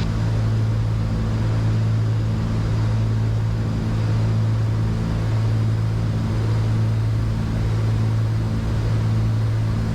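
Cessna 310Q's two piston engines and propellers droning steadily in the cockpit during a descent on approach. It is a constant low hum that swells and fades slightly and slowly.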